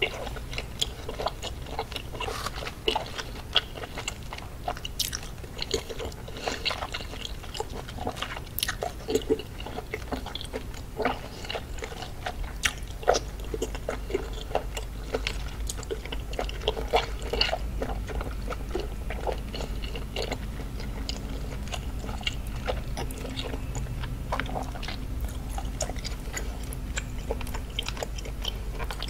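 Close-miked chewing of boiled octopus dipped in gochujang: wet mouth smacks and clicks at irregular intervals.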